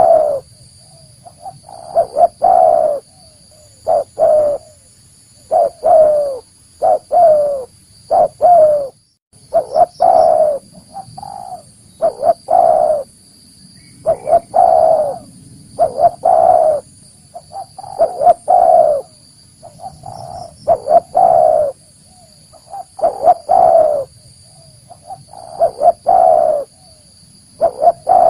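Spotted dove (tekukur) cooing over and over, one short phrase of coos about every two seconds. Each phrase is made of a few low, slightly falling notes.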